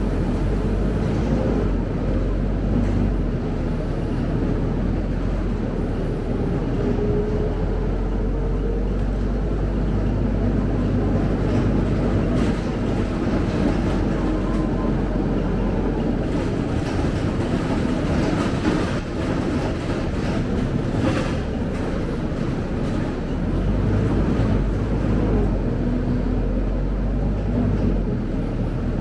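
Scania K270UB single-decker bus under way, heard from inside: steady engine and road rumble, with a faint rising whine from about six to nine seconds in.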